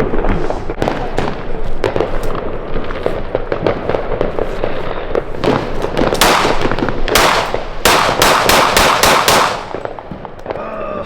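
Fireworks going off: a steady run of sharp pops and crackles, building to a dense string of loud bangs in the second half, then dying down near the end.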